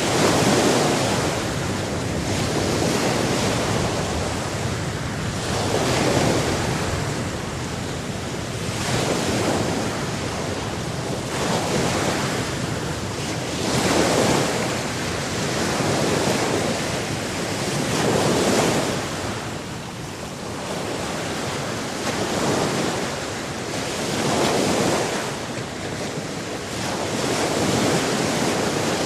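Sea waves washing in and drawing back in a slow rhythm, a swell about every three seconds, over a steady rushing hiss.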